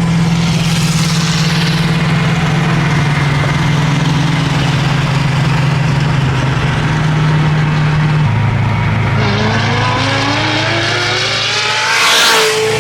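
Car engine running at a steady cruise, dropping to a lower pitch about eight seconds in, then rising in pitch as the car accelerates, with a short loud burst of noise near the end.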